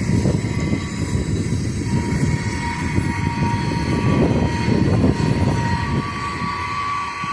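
Distant CSX freight train: a low rumble, with faint steady horn tones that grow a little louder near the end.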